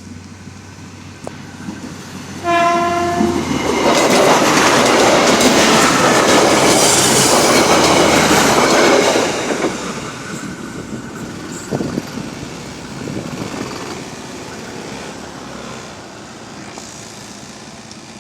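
A train gives one short horn blast, then passes close by with loud rushing and the clatter of its wheels on the rails for about six seconds, before fading into the distance.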